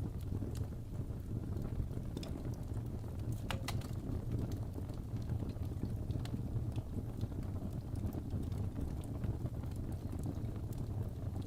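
Wood fire burning in a fireplace: a low, steady rumble of flames with scattered crackles and pops from the burning logs, including a few sharper pops about three and a half seconds in.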